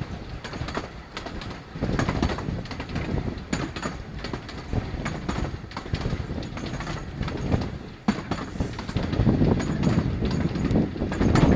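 Narrow-gauge passenger train running along the track, heard from a carriage window: a continuous rumble with irregular clicks and knocks from the wheels on the rails. It grows louder about two seconds in and again about eight seconds in.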